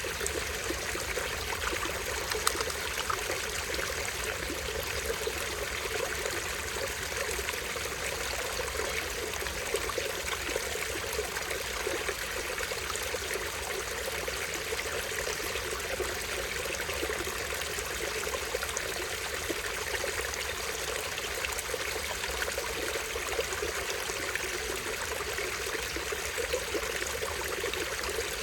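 Small stream spilling over a tiny waterfall: a steady trickling and splashing flow with small splashes here and there.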